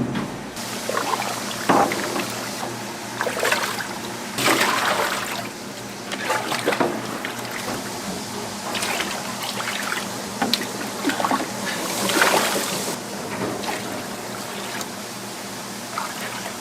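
Irregular clattering and rustling of food being handled and prepared, with water trickling and splashing at times.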